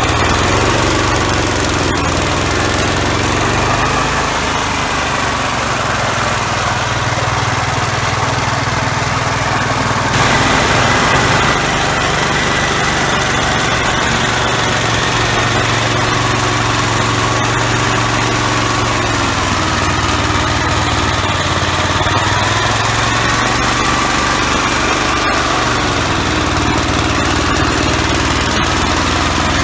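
Gravely walk-behind tractor engine running with the MA115 Deluxe snowblower mounted. Its pitch sags and recovers several times, as under changing load, and the sound grows brighter and hissier about ten seconds in.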